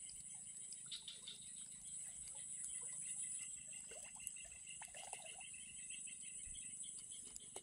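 Outdoor animal chorus: a steady high-pitched insect drone with a rapid pulsed chirping call beneath it. A few faint clicks and small knocks come in the middle.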